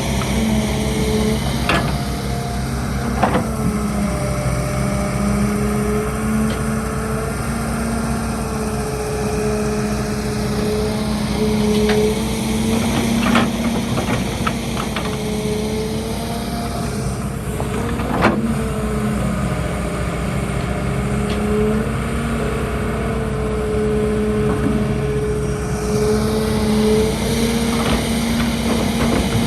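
Excavator's diesel engine running steadily, its pitch dipping and recovering slightly as the machine works under load. A few sharp knocks are scattered through it.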